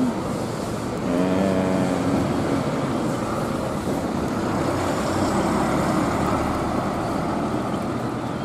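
Heavy rain pouring down steadily, mixed with a large bus's engine running as the bus pulls in. A short pitched tone, like a horn, sounds about a second in.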